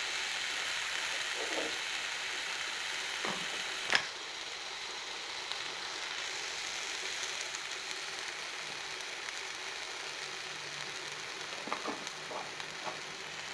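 Grated drumstick flesh and onion sizzling in oil in a pan, stirred with a wooden spatula. A sharp knock comes about four seconds in, and a few light taps near the end.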